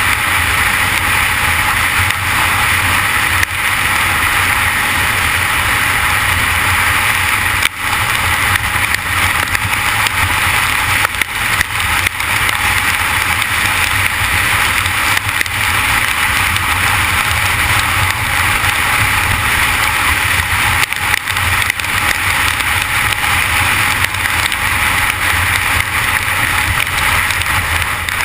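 Steady rush of wind and rain noise on the camera while riding a Honda CG 150 Titan, its single-cylinder engine droning low underneath. The noise falls off briefly once, about eight seconds in.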